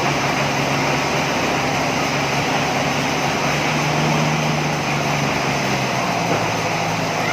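Sawmill machinery running under a steady engine drone, with a noisy whirr over it; the engine's pitch shifts about six seconds in.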